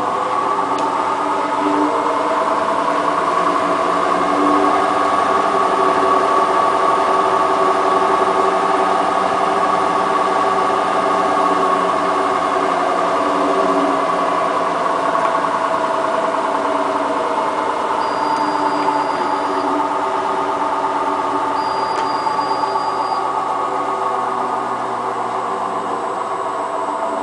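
Hotpoint Ultima WT960 washing machine spinning: the motor's whine, made of several tones, climbs to speed in the first few seconds, holds, then slowly drops in pitch toward the end.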